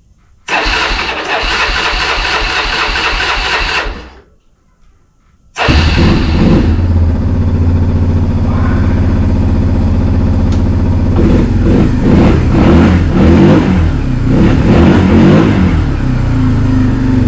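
Honda Fourtrax 300 ATV's single-cylinder engine cranking for about three seconds, stopping, then on the second try catching and running on choke, with the throttle blipped up and down in the second half. It is a cold start after a crank-but-no-spark fault, and the engine is now firing.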